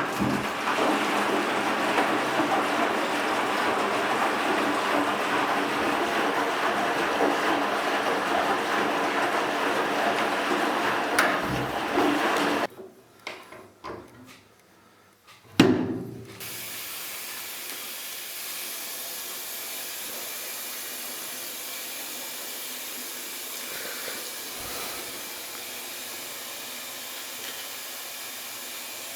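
Water pouring into the tub of a 1956 Eudora B09 semi-automatic washing machine, stopping suddenly about 13 seconds in. A few clicks and a knock follow, then a steady, quieter hiss.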